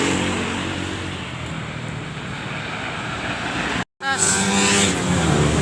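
Scania K410IB bus's diesel engine running steadily. The sound drops out completely for a split second about four seconds in, then carries on.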